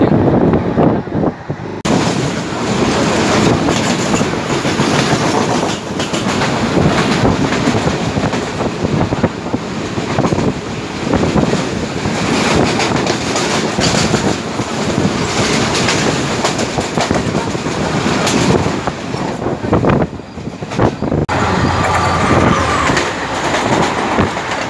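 Train running along the rails, with a dense clickety-clack of wheels over rail joints.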